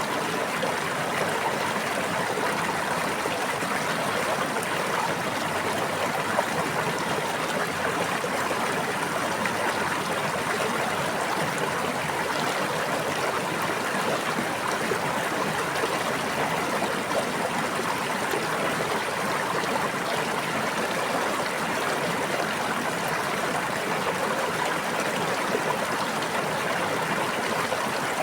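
A brook or stream running steadily: continuous, even water noise with no change.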